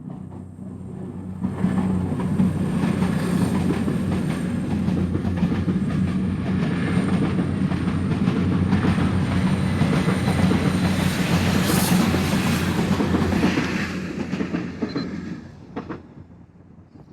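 A train passing on the rails, its wheels running over the track with a low steady hum beneath. It comes up loud about a second and a half in and dies away near the end.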